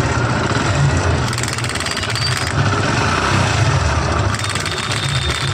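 Hero Splendor motorcycle's single-cylinder four-stroke engine idling steadily, with the mechanical noise known as a 'magnet sound', which comes from the magneto-flywheel side of the engine.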